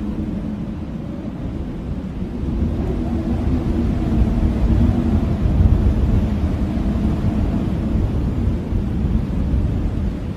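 Blizzard wind, a deep low rush that rises and falls in gusts, swelling after about two seconds and easing a little toward the end.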